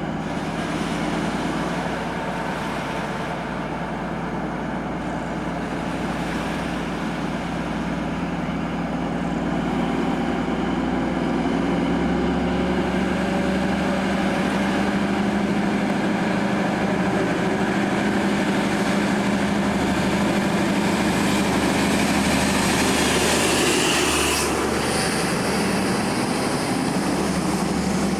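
Diesel train engine running with a steady drone, growing slowly louder through the first half.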